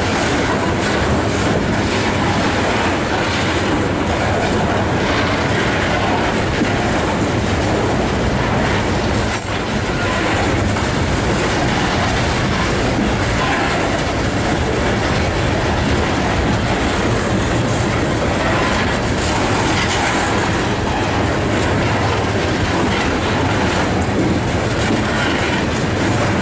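Coal hopper cars of a slow freight train rolling past close by: a steady, loud rumble with the wheels clacking on the rails.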